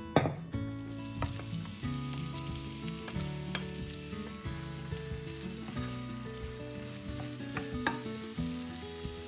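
Food frying in hot oil in a pan: a sudden loud burst of sizzling just after the start, then steady sizzling with scattered clicks of a utensil stirring, over background music.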